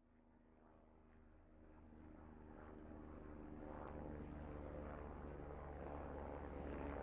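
A faint, steady engine-like drone that slowly grows louder over the last few seconds.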